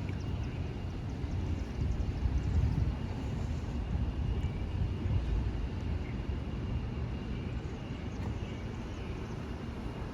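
Outdoor street background noise: a low, uneven rumble that swells about two seconds in.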